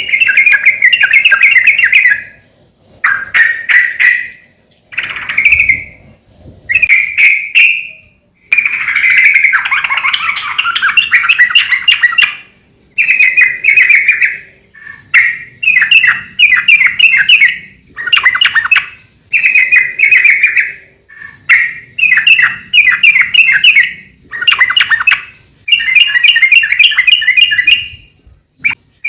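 Yellow-vented bulbul (trucukan) singing loud, bubbly, chattering song phrases, each a second or two long, repeated again and again with short pauses between them.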